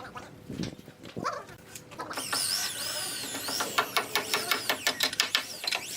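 Birds chirping, then a quick, even series of sharp taps, about five a second, from about halfway in.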